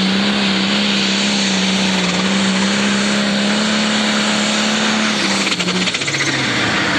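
Turbocharged diesel Pro Stock pulling tractor running flat out under load with a steady high engine note. About six seconds in the pitch drops sharply as the engine is throttled back.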